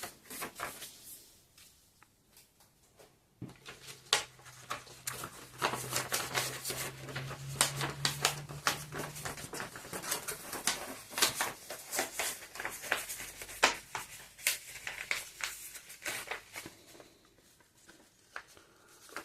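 Sheet of paper crinkling and crackling as it is folded into a triangle along its creased diagonals: a dense run of small crackles and clicks that starts a few seconds in and dies down near the end. A faint low hum runs under the first part.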